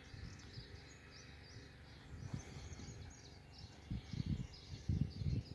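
Small birds chirping repeatedly with short, quick high notes. Low rumbling bumps on the microphone build up about four seconds in and are the loudest sound near the end.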